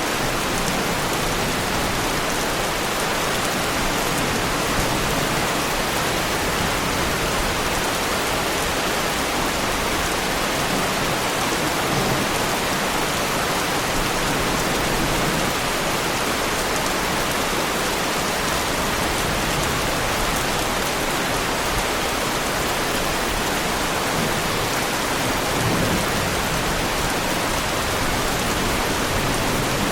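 Heavy rain falling steadily on a car's body, an even, unbroken hiss of drops.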